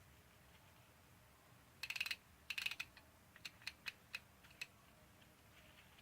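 Ratchet wrench clicking while a cylinder head bolt is turned: two quick runs of rapid clicks about two seconds in, then about five single clicks over the next two seconds.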